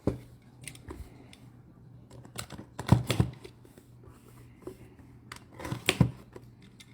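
Trading cards handled and slid against one another, a few short scraping swishes, the loudest about three and six seconds in, over a steady low hum.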